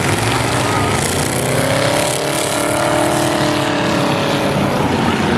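Engines of demo cars racing on a speedway oval, running loud and steady, with one car's engine note rising and falling as it passes close about halfway through.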